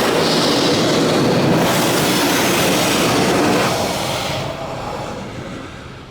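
High-pressure rinse jets of a Ryko Radius automatic car wash spraying the car with a loud rushing hiss, which fades off about four seconds in as the spray moves away.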